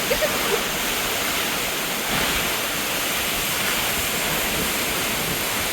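Perrine Coulee Waterfall's falling water, a steady, loud rushing.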